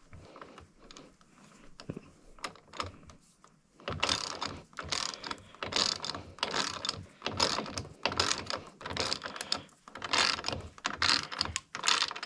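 Hand socket ratchet clicking in repeated back-and-forth strokes, snugging an engine mounting bolt. Faint scattered clicks at first, then steady strokes about every half second from about four seconds in.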